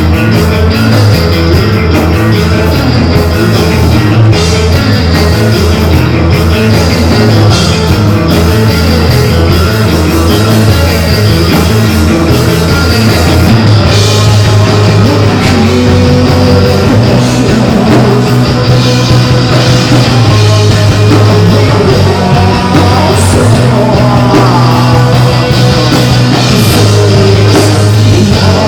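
Live rock band playing loudly, with guitar and drums. About fourteen seconds in, the music shifts to long held low notes.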